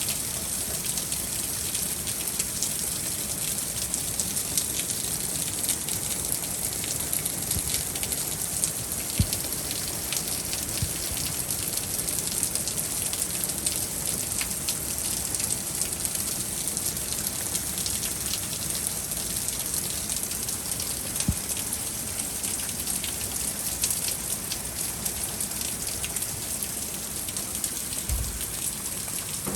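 Steady heavy rain from a spring thunderstorm, a dense wash of falling water with many small sharp drop impacts. A brief low thump comes near the end.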